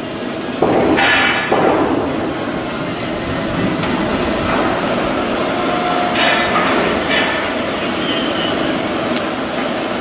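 Steel hull construction work: metal clanging and hammer-like knocks over a steady industrial din, with a cluster of louder strikes about a second in and two more around six and seven seconds.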